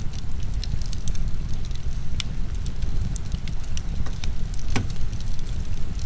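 Wood fire crackling, with many small sharp pops and one louder pop about five seconds in, over a steady low rumble of heavy rain.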